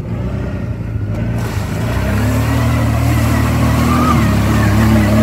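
ATV engine running under throttle. It grows louder and rises in pitch about two seconds in, then holds steady.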